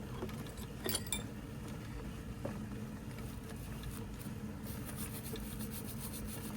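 A few light clinks and taps of small steel depth-gauge parts being handled, a pair about a second in and one more around two and a half seconds, over a steady low hum.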